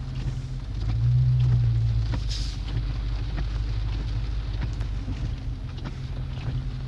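Car engine running at low speed through a rolling drive, heard from inside the cabin as a steady low hum that swells briefly about a second in. Faint ticks of rain come through the partly open window.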